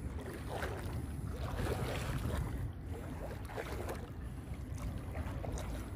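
Legs wading through deep swamp water, sloshing in repeated strides about once a second, over a steady low rumble of wind on the microphone.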